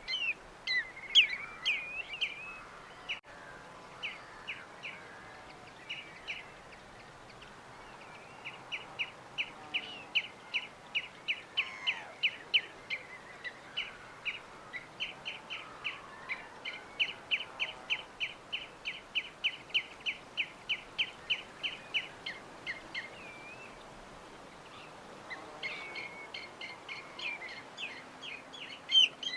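Small birds chirping: clusters of quick chirps at the start and again near the end, and a long run of rapid, evenly repeated notes through the middle, over a steady background hiss.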